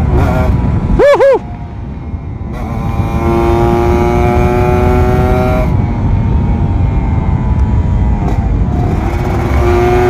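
Kawasaki Ninja RR 150's two-stroke single-cylinder engine pulling hard through the gears: the engine note climbs in pitch, drops at each shift and climbs again. About a second in, the revs rise and fall sharply twice. Wind rumbles on the microphone throughout.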